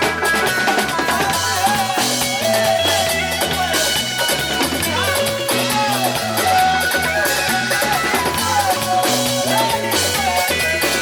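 A band playing: drums and a repeating bass line under a lead melody that bends and slides in pitch, with guitar.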